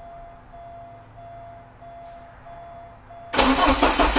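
A faint repeating beep, then about three seconds in the Porsche 944's engine is cranked over with a rapid, even pulsing. This is its first start after reassembly with a new air-oil separator.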